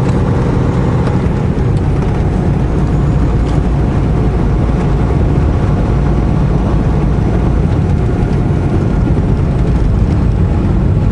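Semi-truck diesel engine and road noise heard inside the cab while driving: a steady, loud low drone with a faint even whine above it.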